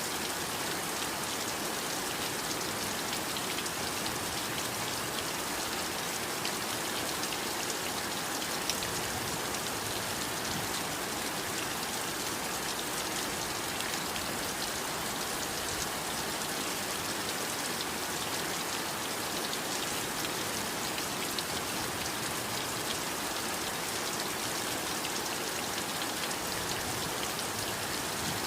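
Heavy rain falling steadily: an even hiss of countless drops with faint scattered drop ticks.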